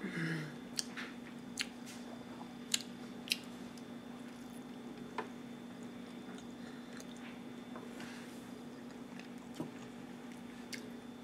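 A person chewing food close to the microphone: soft wet mouth sounds with scattered sharp clicks and smacks, over a steady low hum.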